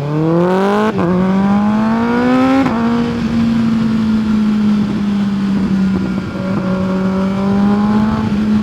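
Kawasaki ZX-6R 636 inline-four engine accelerating from a stop, revs climbing, with upshifts about one second and just under three seconds in, then running at steady, slightly varying revs, with wind rush.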